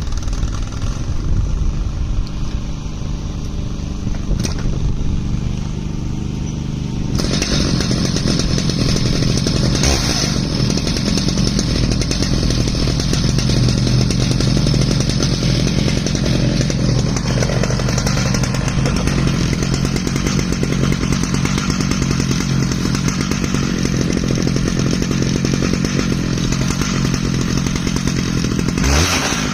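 Stihl MS881 two-stroke chainsaw running steadily in an Alaskan chainsaw mill, cutting through an ash log. About seven seconds in it grows louder and harsher, running at full throttle under load in the cut.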